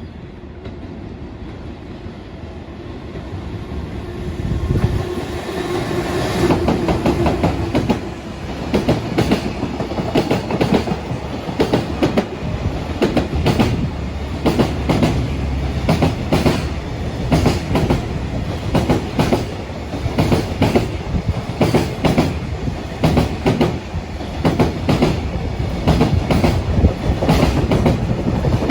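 A train approaching and then passing close by, its wheels clacking rhythmically over the rail joints; the loud clatter builds about four seconds in and keeps going for over twenty seconds.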